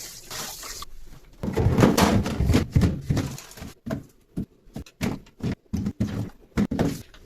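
Fridge parts and containers being handled during cleaning: a stretch of rubbing and scrubbing, then a quick series of short knocks and clicks as items are set down.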